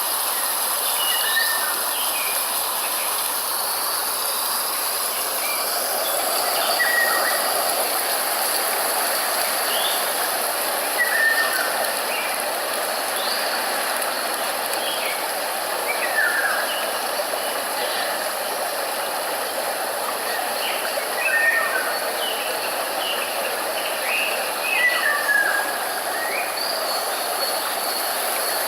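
A steady rushing hiss with many short bird chirps scattered over it.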